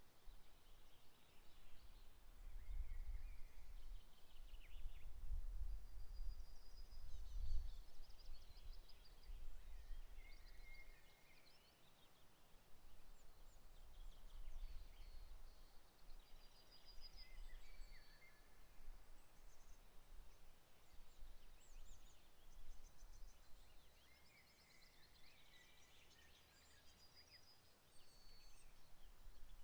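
Songbirds singing in short, repeated trilling and chirping phrases over a low rumble that is strongest in the first third.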